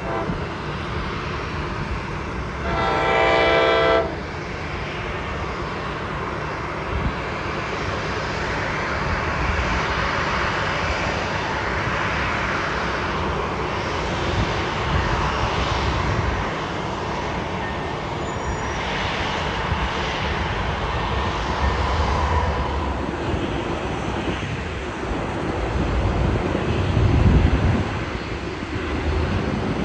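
A train horn sounds one blast of a little over a second, about three seconds in. It is followed by a long, steady rushing rumble that swells through the middle and slowly fades.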